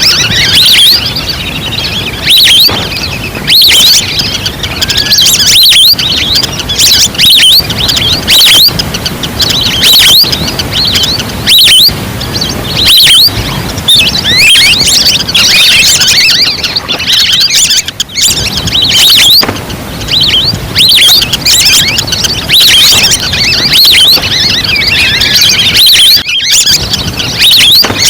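Recorded lure call of wild ducks: a flock's loud, dense high whistling chirps repeating without pause, played to draw ducks in.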